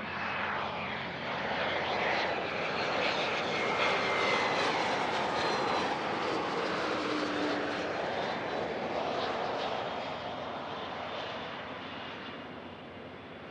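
Business jet engines going by on the runway: a rushing jet roar that builds to a peak about four seconds in, then slowly fades as the aircraft moves away.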